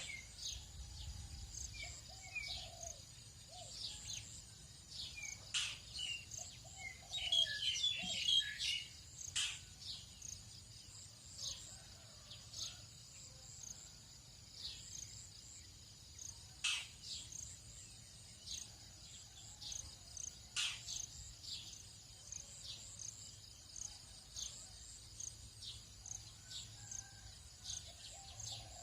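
Tropical dawn chorus: many birds chirping and calling, with a burst of rapid twittering about seven seconds in, over a steady high-pitched drone of insects.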